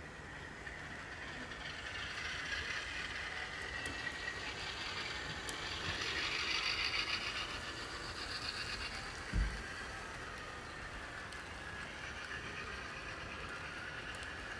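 HO-scale model trains running on the layout: a steady whir of small motors and wheels on track that grows louder for a few seconds as a train comes close, with a few faint ticks and one short low thump past the middle.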